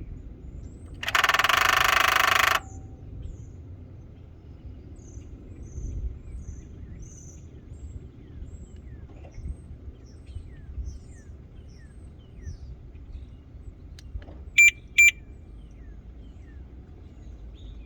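A 2012 BMW X5 xDrive35i gives a loud buzzing rattle for about a second and a half near the start: the unexplained rattle that the owner hears from the engine bay. Later come two short beeps about half a second apart, and birds chirp faintly throughout.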